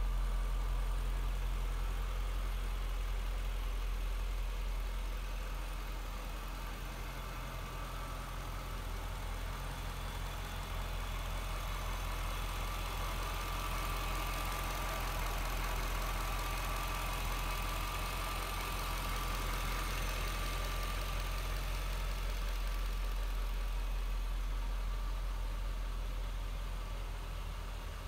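Jaguar XKR's supercharged 4.0-litre V8 idling steadily, with a thin high whine that grows louder in the middle.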